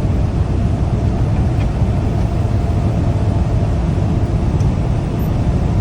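Steady low drone inside a semi truck's cab while driving: the diesel engine and road noise running on without change.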